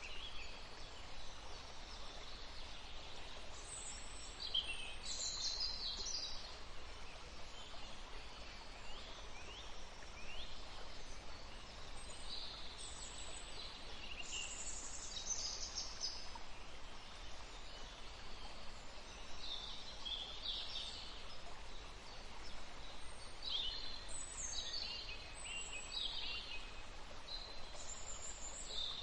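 Several songbirds chirping and trilling in short, high phrases, over a steady background hiss.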